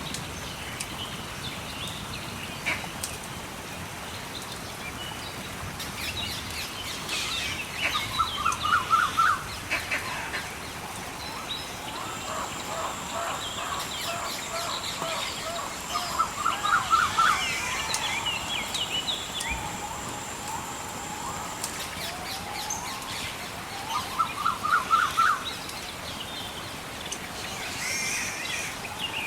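Birds calling over a steady hiss of rain or running water. The loudest calls are a rapid run of repeated notes, heard three times about eight seconds apart, with scattered chirps between. Faint crackles of a wood fire come through now and then.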